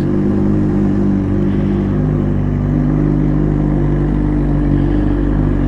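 Suzuki GSX-R600 inline-four engine running at steady revs while riding, picked up close by the rider's camera mic.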